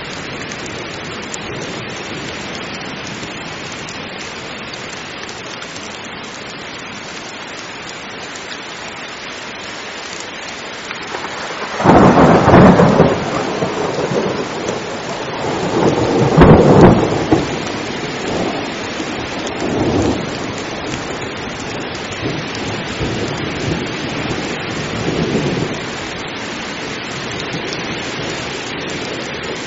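Heavy rain falling steadily in a thunderstorm. About twelve seconds in, thunder breaks suddenly, swells again a few seconds later, and rumbles away in smaller peals.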